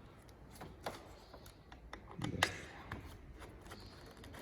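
A few faint clicks and taps of small hand tools and metal parts being handled while a screw on a motorcycle's handlebar controls is loosened, the loudest knock about two and a half seconds in.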